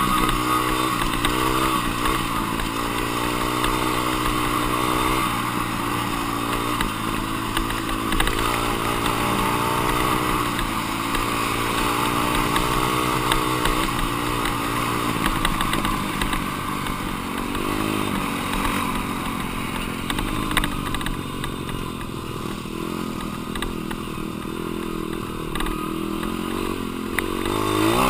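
Four-stroke dirt bike engine being ridden, its revs climbing and dropping repeatedly as the rider works the throttle and gears.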